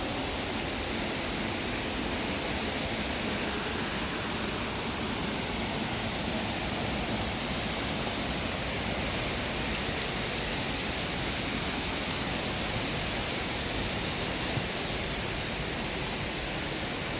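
Rushing river water, a steady even roar of flowing water with a few faint clicks.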